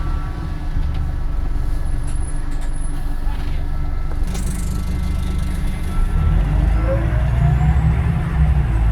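Scania Omnidekka double-decker bus engine running, heavy and low, growing louder in the last few seconds with a thin rising whine.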